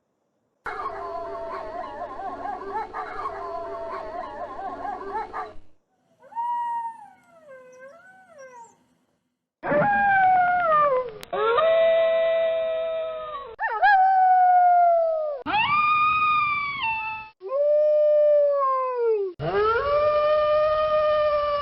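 Wolves howling in spliced clips. First several voices howl together in a wavering chorus, then a lone quieter howl, then a run of long single howls that each slide down in pitch at the end. Abrupt cuts and brief silences separate the clips.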